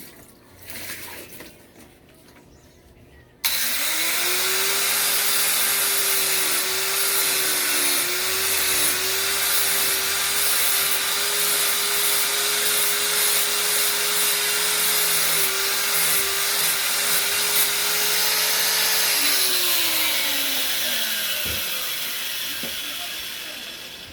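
A small electric motor switches on abruptly a few seconds in. It spins up within a moment to a steady high whine with a loud hiss, runs evenly for about fifteen seconds, then winds down in pitch over a couple of seconds as it coasts to a stop.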